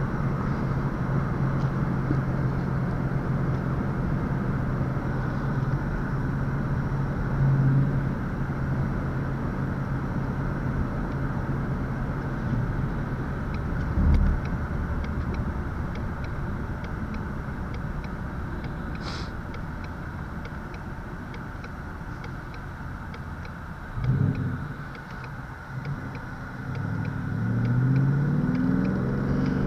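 2019 Ford Mustang GT's 5.0 L Coyote V8 running at a steady cruise, heard from inside the cabin, its drone slowly growing quieter as the car eases off. There is a single thump about halfway through, and near the end the engine pulls again with its pitch rising.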